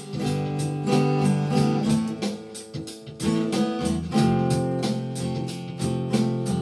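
Instrumental break in a rock song: guitar strummed in a steady rhythm under sustained notes, with no singing.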